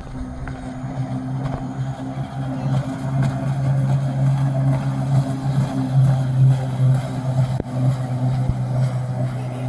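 Engine running at a steady speed, a constant low hum that holds its pitch.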